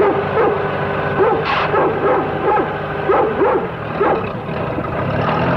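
A rough collie barking repeatedly, about two barks a second, over the steady hum of a farm tractor engine running.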